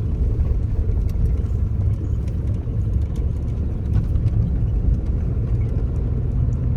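Steady low rumble of a truck's engine and tyres on the road, heard from inside the cab while driving, with a few faint light ticks.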